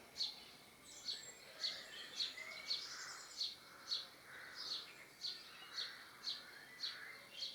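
A bird calling over and over, a short high chirp about twice a second.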